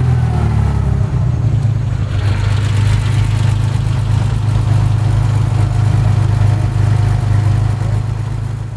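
Porsche flat-six engine idling steadily close by, a deep, even low drone.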